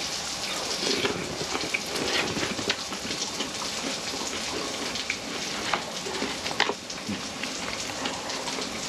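Ham sizzling in a frying pan on a portable gas stove, a steady crackling hiss with many small pops; the burner has been turned off and the pan is still hot.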